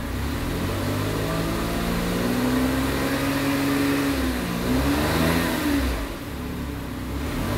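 Toyota Raize's 1.0-litre turbocharged three-cylinder engine revved while parked, heard from inside the cabin with the air conditioning on: the revs climb over the first few seconds and hold, drop back, rise again briefly about five seconds in, then settle to idle.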